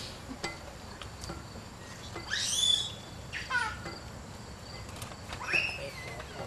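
Birds chirping: a few separate short calls with quick rising and falling glides in pitch, the loudest about two and a half seconds in, over a faint steady background.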